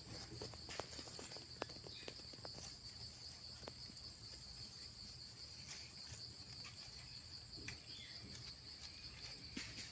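Steady, high-pitched insect trill with two unbroken tones, and scattered sharp clicks in the first few seconds.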